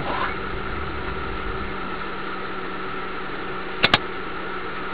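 Car engine idling, a steady hum heard from inside the cabin. Two sharp clicks come close together a little under four seconds in.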